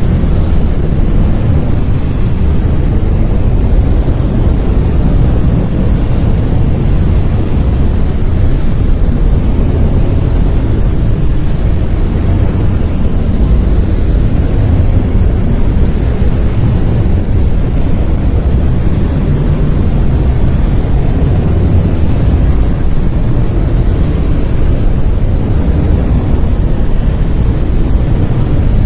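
Brown noise: a steady, unchanging hiss weighted toward deep rumble, with little treble, like a distant waterfall or wind.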